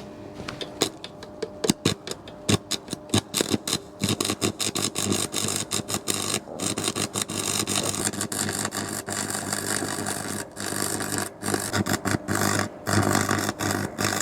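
An old electric welder tack-welding a steel butt joint. The arc crackles in scattered sparks at first, then sizzles and crackles almost continuously with short breaks, over a steady electrical hum.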